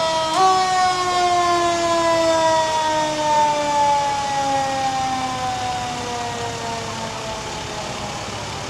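Fire truck siren rising briefly, then one long wail that slowly falls in pitch and fades away over several seconds.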